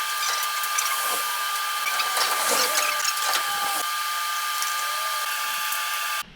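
Steady high-pitched whine of a small motor or power tool, with faint voices behind it. It cuts off abruptly near the end.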